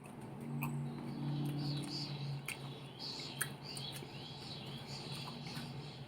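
Mouth and chewing sounds of eating salad, heard as scattered sharp clicks, with a run of short rising chirps about halfway through over a steady low hum.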